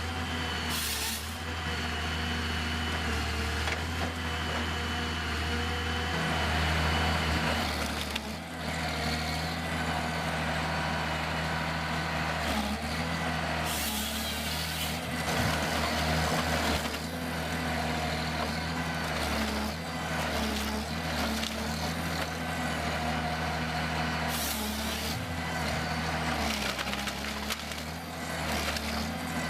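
Heavy diesel machinery running steadily, broken several times by short hissing bursts.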